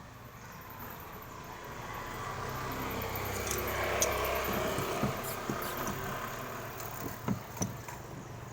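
A motor vehicle passing by, its sound swelling to a peak and fading away over a few seconds, with a few light knocks near the end.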